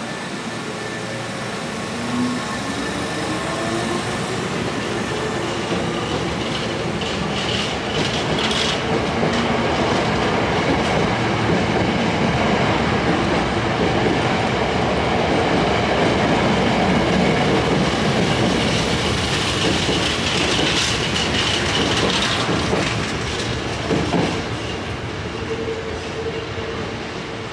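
Hankyu Kyoto Line electric train pulling out of the station. Its motor whine rises in pitch in the first few seconds as it accelerates, then the cars rumble and clatter over rail joints past the platform. The noise grows louder to a peak and then eases off near the end.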